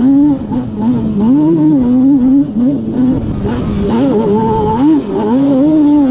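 Yamaha Banshee 350's two-stroke twin engine, bored out with a Cheetah 426 big-bore kit, revving hard under riding. Its pitch keeps rising and falling, with a few brief dips in loudness.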